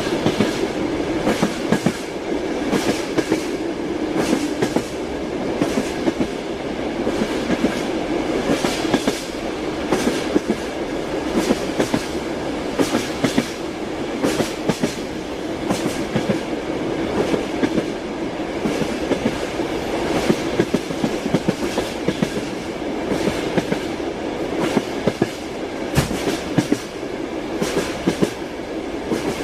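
Moving train: steel wheels clicking over the rail joints, frequent and irregular, over a steady rolling rumble.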